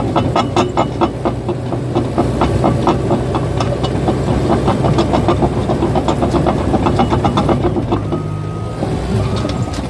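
Caterpillar bulldozer's diesel engine running under a fast, regular clanking of its steel tracks. About eight seconds in the clanking dies away and a repeating high beep begins.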